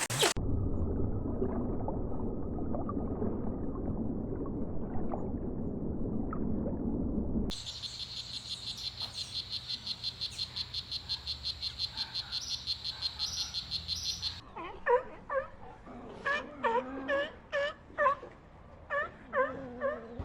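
Three different animal recordings play one after another, each starting and stopping abruptly. The first is a low, rough, rumbling stretch. About seven seconds in, a fast high-pitched pulsing trill takes over at about six pulses a second. Near the end, a series of short pitched calls follows, roughly two a second.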